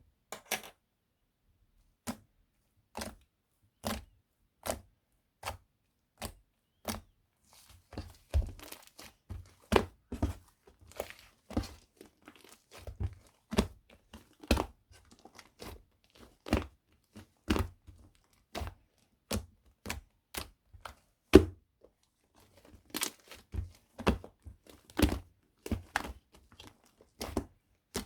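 Irregular light knocks and taps, one or two a second, with faint crinkling between them from about a third of the way in; one knock about three quarters through is louder than the rest.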